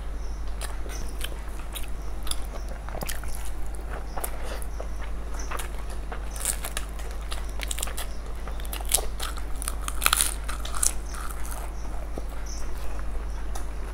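Chewing and lip-smacking of two people eating masala fried rice by hand, with occasional crunches of papad, over a steady low hum.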